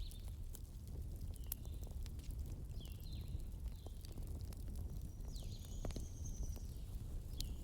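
Wood fire crackling in a fireplace: scattered sharp pops and snaps over a steady low rumble, with several short, high, falling chirps here and there.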